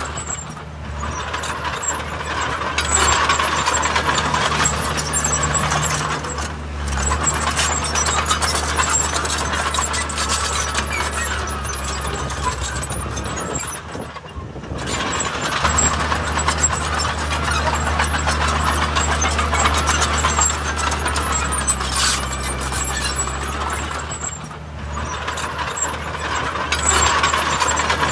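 Heavy diesel earthmoving machinery running: a steady low engine drone under a loud, broad noise that eases off briefly a few times.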